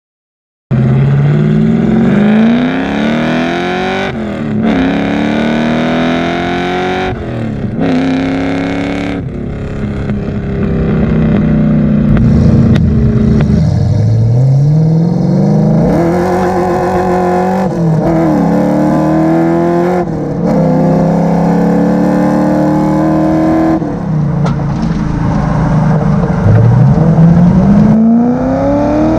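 Ford V8 engine and exhaust with the car accelerating hard through the gears: the engine pitch climbs and drops back with each upshift, several times over.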